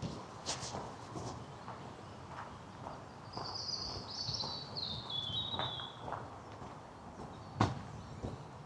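Footsteps on a path, with a sharper knock near the end. A songbird sings one phrase of about three seconds starting about three seconds in, a run of notes falling step by step in pitch.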